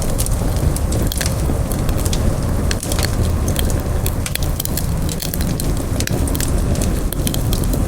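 Campfire burning, the wood crackling with frequent sharp, irregular pops over a steady low rumble.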